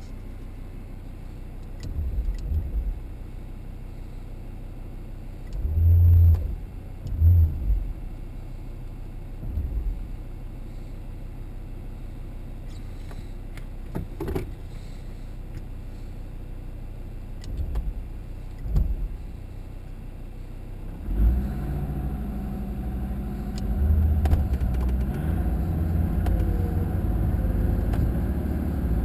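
Land Rover off-road vehicle engine idling, with several short low bursts, then about two-thirds of the way in a louder steady mechanical run with a hum sets in and continues.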